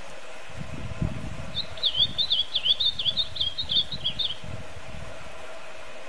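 A songbird singing one quick phrase of about a dozen short, high, twisting notes lasting about three seconds, over a steady hiss with a low rumble beneath.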